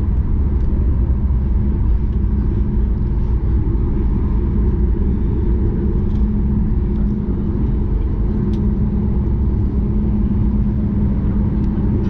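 Steady cabin rumble inside a Boeing 737 MAX 8 airliner: its CFM LEAP-1B engines and airflow running evenly, with a steady low hum, unchanging in level.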